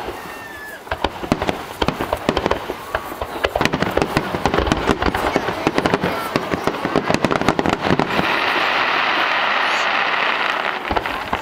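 Aerial fireworks shells bursting in a rapid barrage of bangs and crackles, which about eight seconds in gives way to a dense, even wash of noise for about three seconds before fading.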